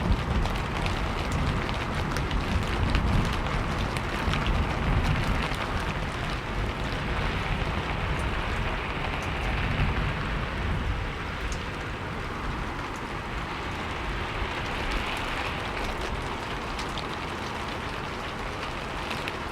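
Steady rain falling and pattering on surfaces, with fine drop ticks over a low rumble that eases off in the second half.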